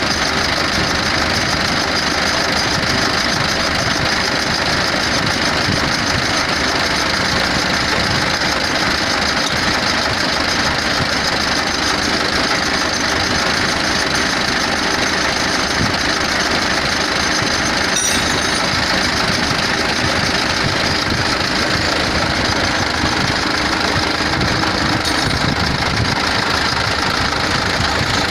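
Isuzu 8PC1 V8 diesel engine idling steadily, run after new O-rings were fitted to the injection pump holders to check the pump for fuel leaks.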